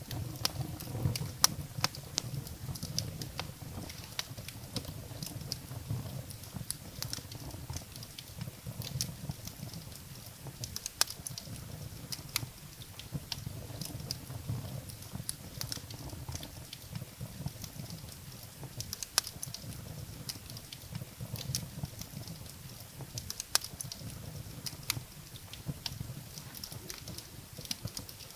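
Wood fire burning in a fireplace: firewood crackling and popping in irregular sharp snaps over the low, steady rumble of the flames.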